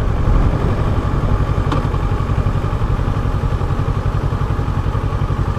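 Kawasaki Ninja 650's parallel-twin engine running at steady low revs as the motorcycle cruises, a smooth even rumble with no revving.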